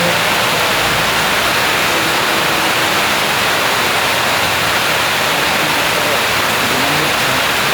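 Heavy rain falling, a steady loud hiss with no break.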